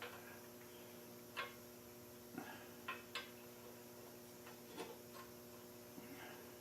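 Scattered light taps and clicks, about seven at irregular intervals, of small sheet-metal parts being handled and lined up, over a faint steady hum.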